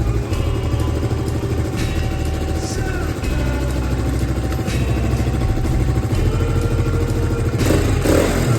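KTM Duke motorcycle engine running through its exhaust at a steady low idle, with a short, louder rush of sound near the end.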